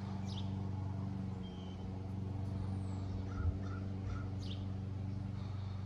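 Birds calling faintly outdoors, a few short calls with three quick ones about three seconds in, over a steady low hum.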